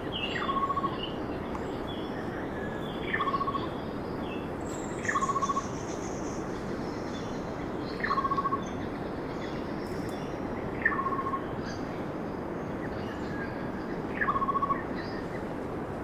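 A bird calling six times, about every three seconds: each call a quick downward sweep ending in a short trill, over a steady background hiss.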